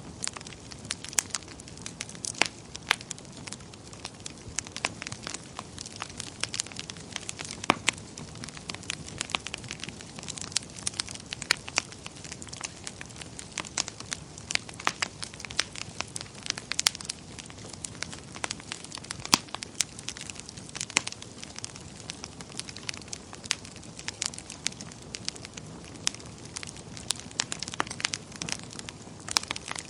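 Wood fire burning in a fireplace: irregular crackles and pops over a low steady hiss.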